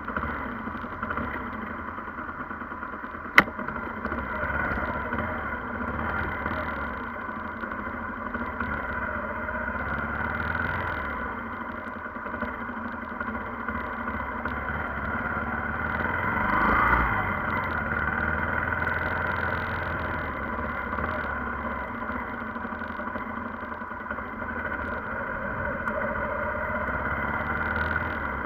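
Vehicle engine and road noise running steadily, as picked up by a dashcam. There is one sharp click about three seconds in and a brief rise in loudness around the middle.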